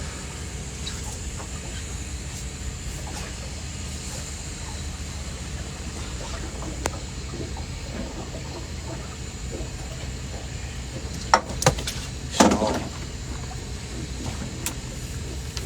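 Boat motor running steadily with a low hum, with a few sharp knocks and a brief rattle on the boat about eleven to twelve seconds in.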